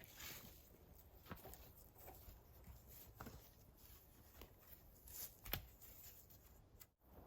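Near silence with faint scattered rustles and small clicks; one sharper click comes about five and a half seconds in.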